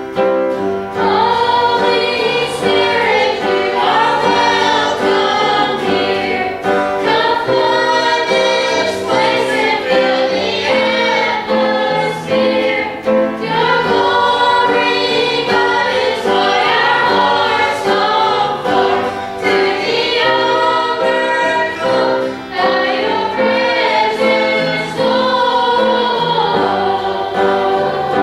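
Gospel song sung by a group of voices with instrumental accompaniment, the sung melody continuing without a break.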